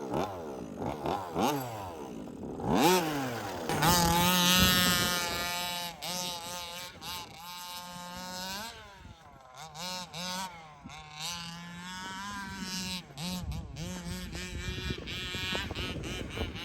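The 29cc two-stroke engine of a 1/5-scale HPI Baja 5B RC buggy revs up and down in short bursts, with the buggy stuck in deep snow. From about four seconds in it is held at high revs, its pitch rising and falling as the throttle is worked.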